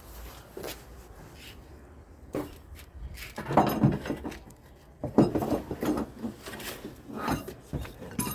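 Irregular metallic clinks, knocks and clatter of tools and suspension parts being handled while a rear shock absorber is fitted, in a few clusters about three and a half, five and seven seconds in.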